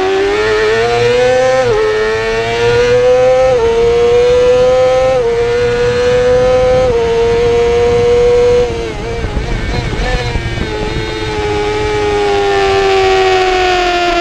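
Yamaha YZF-R6 inline-four engine racing flat out, the revs climbing and dropping back with four quick upshifts. About eight and a half seconds in the throttle closes and the revs fall through a rough stretch of downshifting, then hold at a lower, steady pitch. Wind rush underneath.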